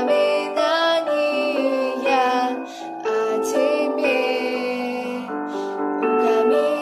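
A woman's voice singing a pop ballad over a piano or keyboard accompaniment.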